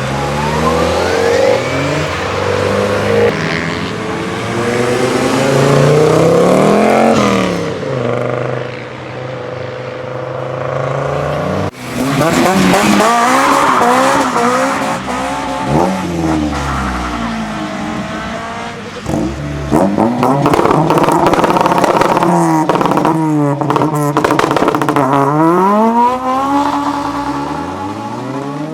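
Modified cars accelerating hard: engine pitch repeatedly climbs and drops through revs and gear changes, with some tyre squeal. A sharp break about twelve seconds in, then a second car revving hard with sharp crackles in its run.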